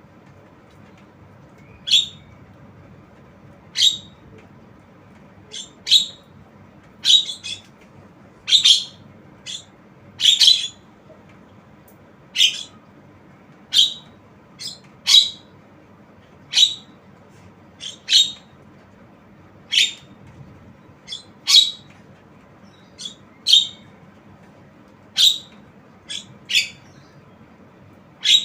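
Javan myna giving short, sharp, high calls, repeated every second or two and sometimes in quick pairs.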